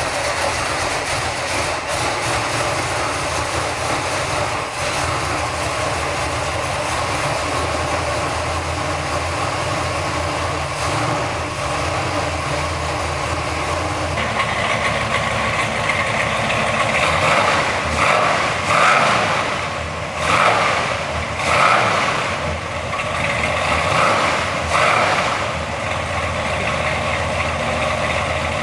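Freshly built 454 Chevrolet big-block V8, newly installed in the car, running steadily at idle. In the second half it is revved in about six short throttle blips a second or so apart, then settles back to idle.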